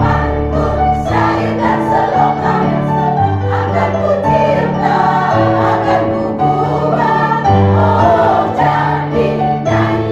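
Choir singing, with sustained chords that change about every second or so.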